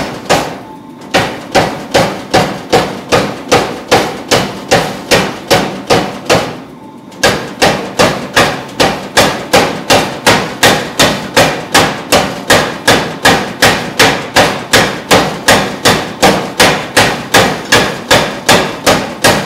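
Hammer blows forging a damascus steel bar of 1095 and 15N20, struck in a steady rhythm of about two and a half blows a second with a brief ring after each. The hammering stops for about a second a third of the way in, then resumes.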